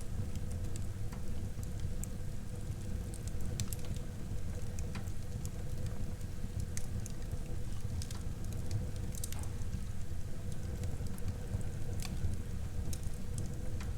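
Wood fire burning in a fireplace: a steady low rush of flame with irregular sharp crackles and pops scattered throughout.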